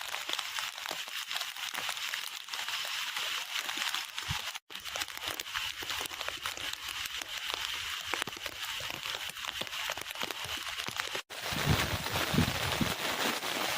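Heavy rain pouring steadily, a dense hiss full of tiny drop clicks. It is broken twice by brief cuts to silence, and from about eleven seconds in, gusts of strong wind buffet the microphone over the rain.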